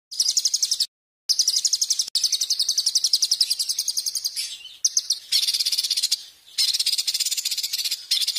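A songbird singing loud, rapid trills of fast repeated notes, set in phrases of a second or several. The song cuts in abruptly just after the start, with a short hard break about a second in and brief pauses later.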